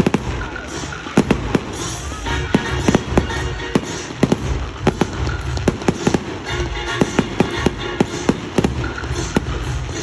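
Fireworks bursting in a rapid, irregular series of sharp bangs, several a second, over a continuous low rumble.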